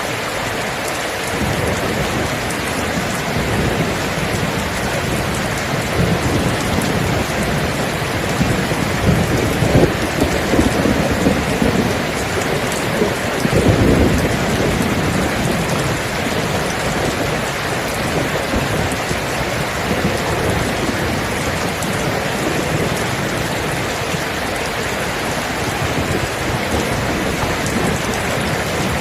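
Steady rain falling, with thunder rumbling in the middle, loudest about halfway through.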